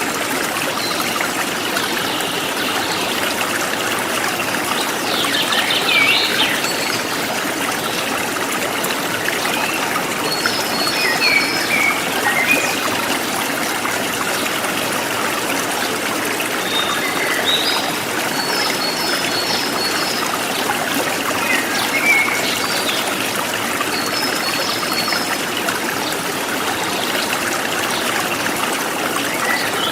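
A small stream trickling and babbling steadily, with birds calling over it: a quick falling call about six seconds in, then short runs of high repeated chirps several times later.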